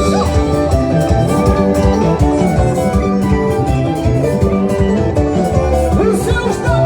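Band playing upbeat dance music: melodic instrument lines over a steady drum beat.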